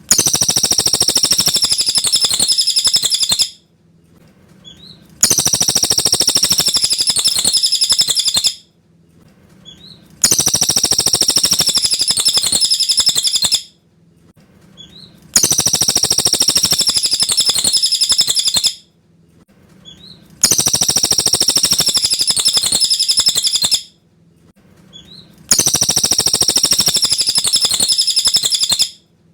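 Cililin songbird singing a clear, high song phrase about three and a half seconds long, repeated six times at even five-second intervals, with a faint short chirp in each pause.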